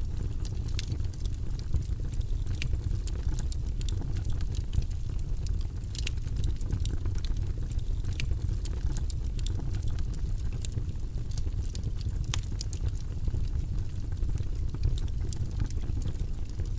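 Fireplace fire burning with a steady low rumble and frequent sharp crackles and pops scattered throughout.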